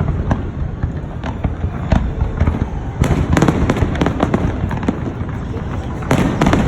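Large aerial fireworks display: a rapid, continuous barrage of booms and crackling bursts over a steady low rumble, thickest about three seconds in and again near the end.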